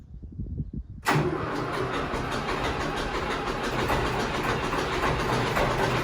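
Same Corsaro 70 tractor's diesel engine cold-starting at 0 °C after glow-plug preheating: low, uneven cranking for about a second, then it fires suddenly and settles into a steady run.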